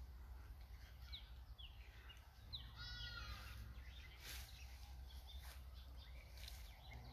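Wild birds calling faintly: short high chirps throughout and one longer call about three seconds in, over a low steady rumble.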